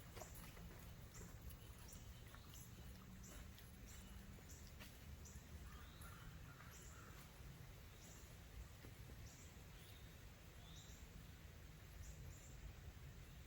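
Near silence in woodland, with faint, short, high bird chirps that fall in pitch and repeat roughly once a second over a low steady rumble.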